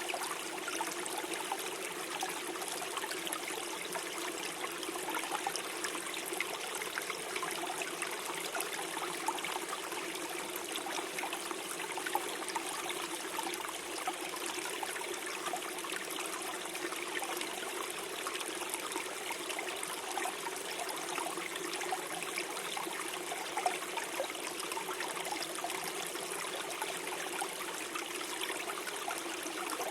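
Small stream flowing and gurgling over stones, a steady, even rush with faint trickles.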